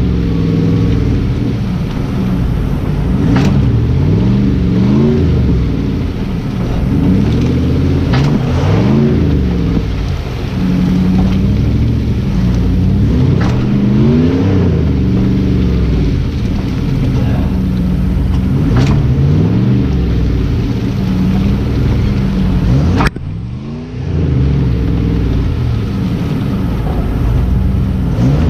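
Jeep engine revving up and easing off again and again, about every four to five seconds, as a 4x4 stuck in deep mud ruts tries to pull free. The sound breaks off suddenly about 23 seconds in, then the revving picks up again.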